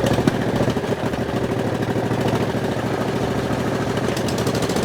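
Racing lawn mower's engine running steadily.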